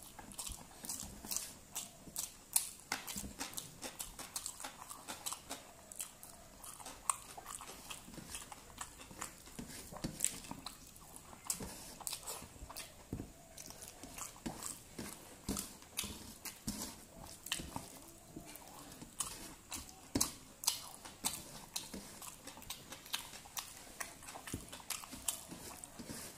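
Close-miked chewing of rice, dal and fried vegetables eaten by hand, a continuous run of wet mouth clicks and lip smacks, with fingers squishing and mixing rice on a steel plate.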